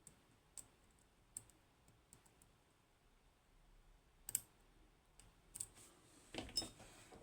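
Faint, scattered clicks and scrapes of a lock pick working the pins of a Kaba Ace lock against the tensioner, with a louder cluster of clicks near the end.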